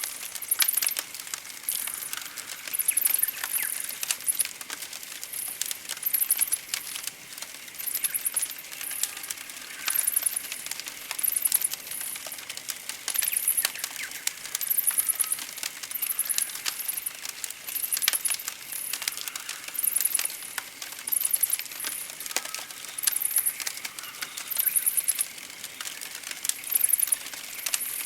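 Campfire crackling with scattered sharp pops, under very high-pitched trilling chirps that repeat about once a second, with faint bird calls.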